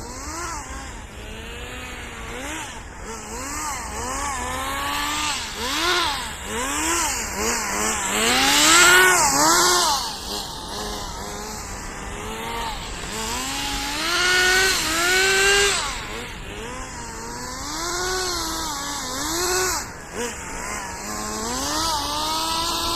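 Small nitro engine of a radio-controlled drift car revving up and falling back over and over, its pitch swinging every second or two. It is loudest about nine seconds in.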